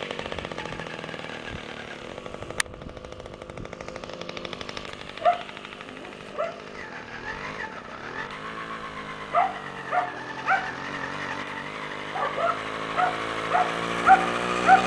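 Small MAW two-stroke auxiliary engine of an NSU motorized bicycle running, its speed dropping about halfway through and then picking up again. A dog barks in short single barks from about five seconds in, more often toward the end; the barks are the loudest sounds.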